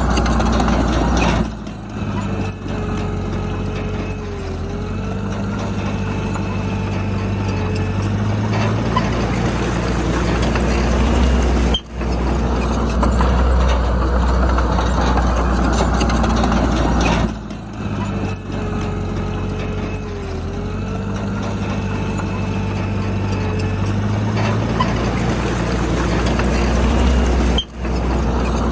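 Diesel engine of heavy earthmoving machinery running steadily under load, its note shifting a few times, with two brief dropouts in the sound.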